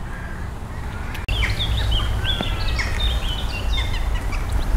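Small birds chirping and singing in many short, quick notes, starting abruptly about a second in, over a steady low rumble.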